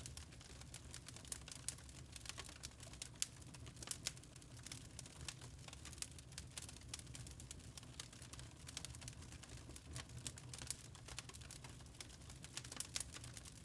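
Burning charcoal crackling: many irregular sharp pops and ticks, several a second, some louder than others, over a faint low rumble.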